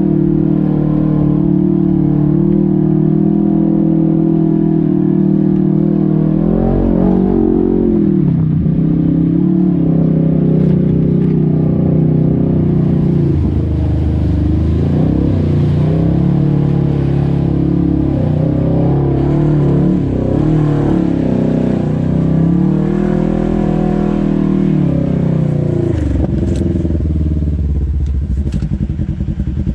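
Side-by-side UTV engine running hard at steady high revs, then the revs drop and climb again several times as the throttle is worked through mud. A few sharp clacks come near the end.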